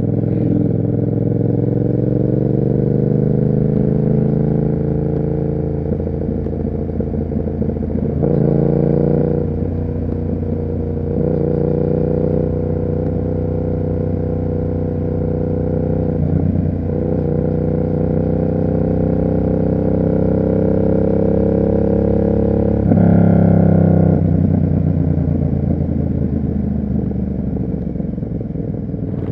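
Yamaha MT-07's parallel-twin engine through an SC Project exhaust, riding under steady throttle. The engine note rises gradually, breaks briefly at gear changes about eight, eleven and sixteen seconds in, and jumps louder around twenty-three seconds in before easing off.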